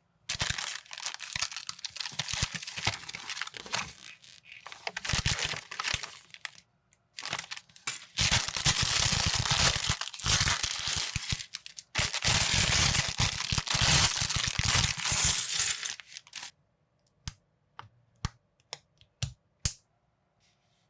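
Plastic packaging crinkling and tearing, as bags of building bricks are opened and handled, in a long rustling stretch with short breaks. After it come several separate sharp clicks.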